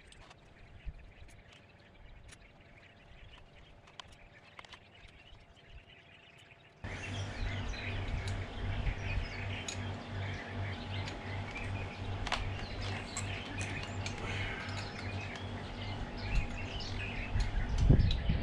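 Birds chirping. About seven seconds in, a louder bed starts suddenly, with many more chirps over a steady low, pulsing hum, and a thump near the end.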